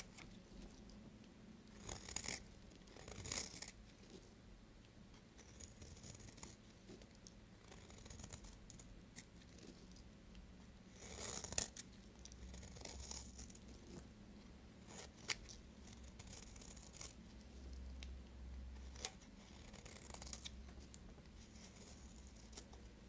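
A knife cutting and scraping through bars of soap: soft scratchy strokes with a few crisp cracks as pieces break off.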